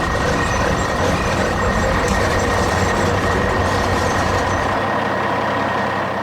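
Heavy truck engine running steadily amid road traffic noise, with a steady whine above it; the low rumble thins near the end.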